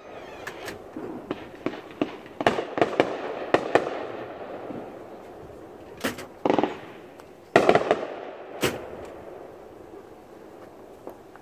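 Fireworks going off: a string of sharp bangs and crackling reports in quick clusters, the loudest around the middle, each followed by a rolling echo, the volleys thinning out near the end.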